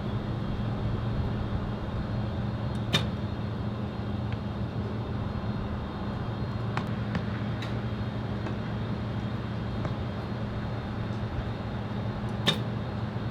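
Two sharp snaps of a recurve bow being shot, the first about three seconds in and the second near the end, with a few faint ticks between. Under them runs a steady low rumble.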